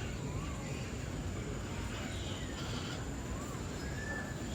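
Bird-park ambience: a few faint short whistled bird calls over a steady low rumble of background noise, with a thin steady high-pitched hum.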